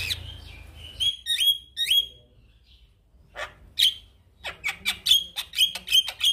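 Male Javan myna singing: three sharp whistled calls that sweep in pitch in the first two seconds, a short pause, then a fast run of short, sharp repeated notes, about four a second, in the second half.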